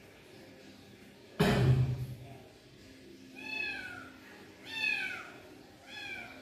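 A loud thump about a second and a half in, then a kitten meowing three times, each meow a short arching call.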